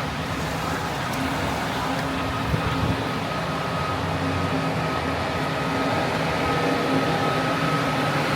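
Steady city street traffic noise: vehicles running on the road, with a continuous steady hum.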